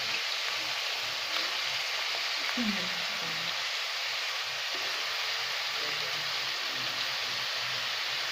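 Hot oil sizzling steadily in a wok as sliced bitter gourd (ampalaya) is added on top of frying ground chicken and onions.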